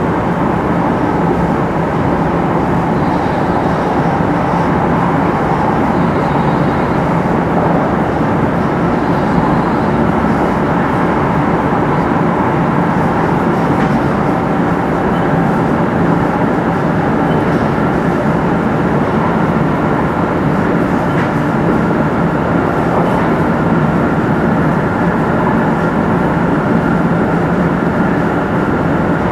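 Running sound of a 500 series Shinkansen motor car with Toshiba GTO VVVF inverter control, heard from inside the car: a steady rumble of wheels on rail and wind, with faint steady tones on top. The train is holding a steady speed.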